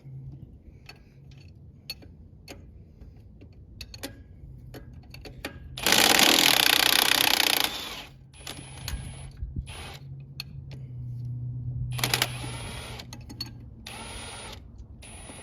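Pneumatic impact wrench running a brake-can mounting nut off, one loud burst of nearly two seconds about six seconds in and a shorter, weaker run near twelve seconds, with scattered metallic clinks of tools and hardware between.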